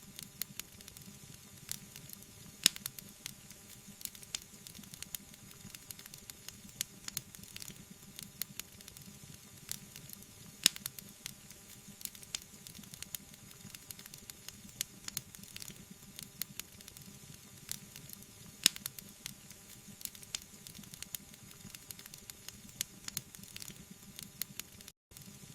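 Wood fire in a fireplace crackling, with irregular sharp pops over a steady hiss; three louder pops come about 3, 11 and 19 seconds in. The sound cuts out for an instant near the end.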